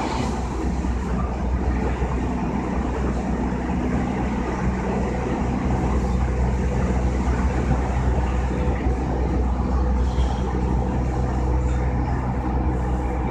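JR East E233-2000 series electric commuter train running at speed, heard from inside the passenger car: a steady rumbling running noise of wheels on rail.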